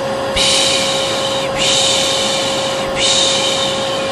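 Hair dryer running steadily with a constant motor hum, overlaid by long shushing 'pşşş' sounds, three in a row of about a second each. This is a shushing-and-hair-dryer white-noise mix for calming a colicky baby.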